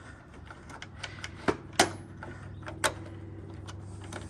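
Clicks and knocks of hand tools and fasteners on car parts being undone by hand, with three sharper knocks about one and a half, two and three seconds in, over a steady low hum.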